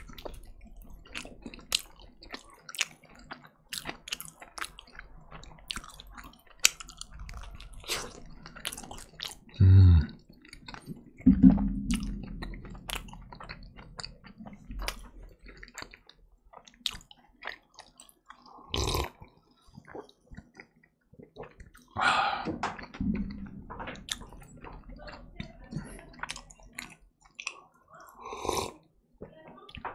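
Close-miked chewing of a slice of pizza: a bite, then wet mouth clicks and crackles while it is chewed. Two loud, low thumps come about ten and eleven seconds in, and near the end there are gulps as a drink is sipped from a mug.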